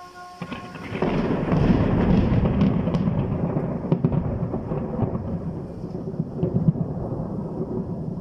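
Thunder rumbling in a rainstorm: a deep rumble builds about a second in and keeps rolling, with scattered sharp crackles in it.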